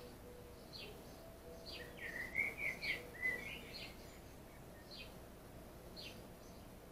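Songbirds calling: one repeats a short falling note about once a second, and a louder run of quick warbling chirps comes about two seconds in.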